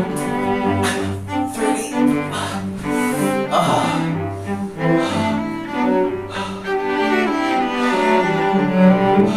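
Music on a low bowed string instrument, playing a line of changing notes.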